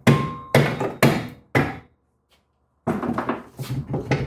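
Four hammer blows on a stuck rear brake rotor, about two a second, each with a short metallic ring. After a brief pause comes a stretch of quick rattling near the end.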